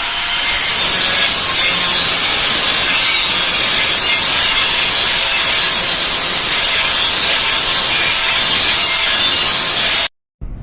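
Steady abrasive grinding of an abrasive power tool on stainless steel, a loud even hiss that cuts off abruptly near the end.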